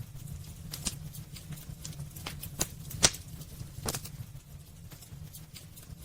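Wood fire burning in a fireplace, crackling with sharp, irregular pops, the loudest about three seconds in, over a steady low rumble.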